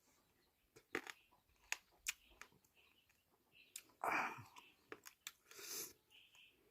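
A person chewing and crunching food close to the microphone, with scattered small crunches and clicks. Two louder breathy bursts come about four and six seconds in.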